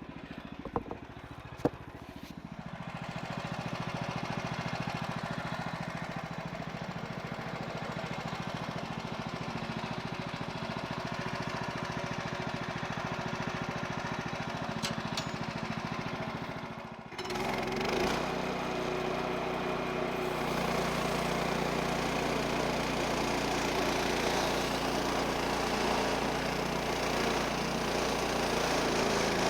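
The Woodland Mills HM130 sawmill's 14 HP Kohler engine running steadily as the band saw cuts through a log. The sound swells about two seconds in and changes abruptly about 17 seconds in to a deeper, fuller engine note.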